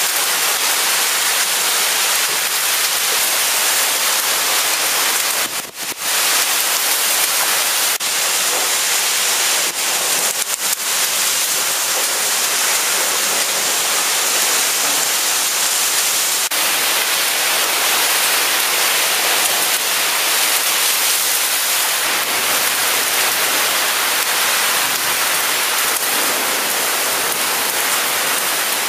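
Heavy thunderstorm rain pouring down steadily as a dense, loud hiss, dipping briefly about six seconds in.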